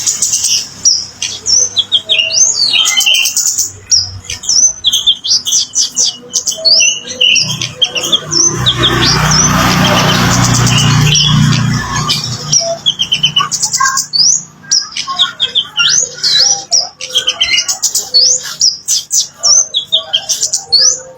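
Kemade songbird singing, a fast, dense run of high chirps and short whistled phrases. A rushing noise sounds under it for about three seconds near the middle.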